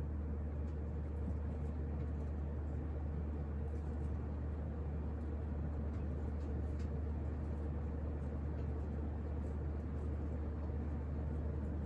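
A 1986 Casablanca Lady Delta ceiling fan running steadily on high speed on new bearings. Its motor hums low, with a faint higher tone above a steady rush of air from the blades.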